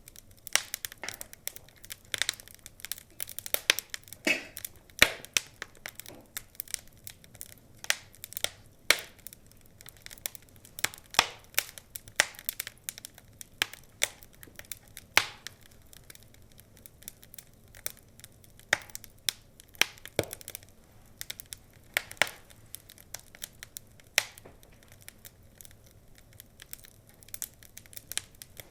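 Wood fire crackling in a fireplace: irregular sharp pops and snaps over a faint hiss, a little sparser in the second half.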